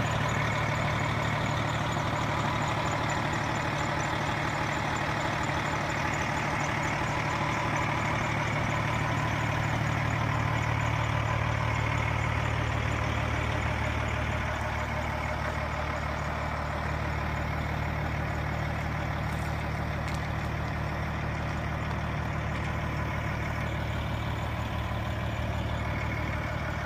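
A 2007 KME rescue fire engine's diesel engine idling steadily.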